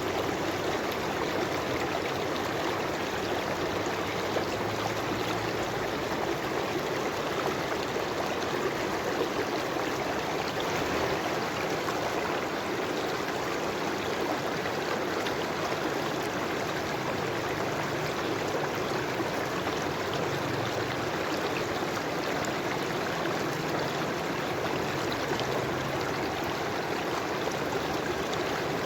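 River water flowing and trickling in a steady, unbroken rush.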